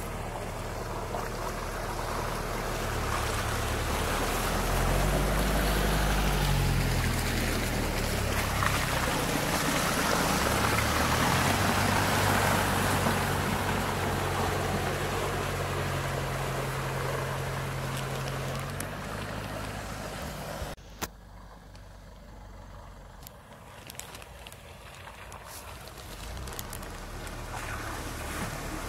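Mitsubishi Delica van's engine running while driving over rough ground, its pitch rising and falling under varying load, over a steady rumble of tyre and road noise. About two-thirds of the way through the sound drops abruptly to a quieter stretch, then builds up again.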